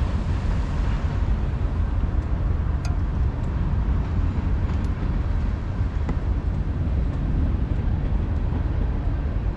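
Long train rolling past: a steady low rumble with a few faint clicks.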